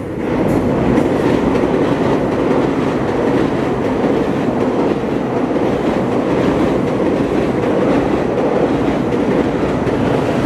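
GO Transit commuter train crossing the railway bridge directly overhead, loud and steady; it builds up within the first half second and holds level throughout.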